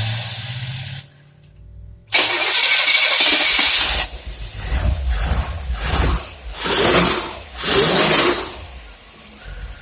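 Test engine running on a Rochester two-barrel carburetor and revved in a series of loud bursts: one long burst, then four or five shorter blips, easing back to a lower steady run near the end.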